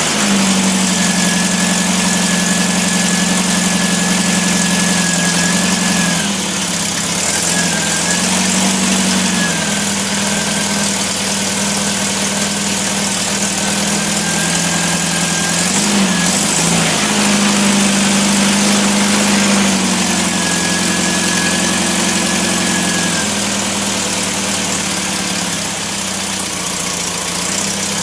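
Rebuilt MGB 18V B-series 1.8-litre four-cylinder engine running steadily on an engine test stand, its speed shifting slightly a few times. A faint high whine comes and goes over it.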